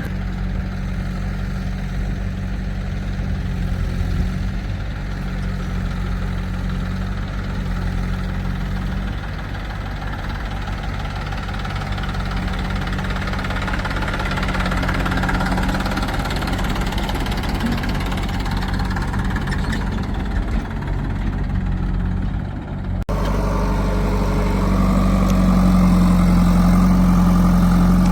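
Heavy diesel machinery engine running steadily at idle, a constant low hum. About three quarters of the way through the sound changes abruptly and is louder afterwards.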